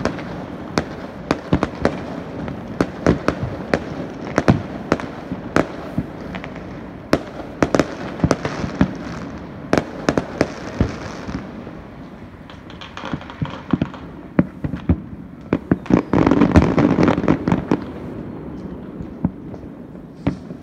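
Aerial fireworks going off: a long, irregular run of sharp bangs and pops, thickening into a denser, louder cluster of bangs about three-quarters of the way through.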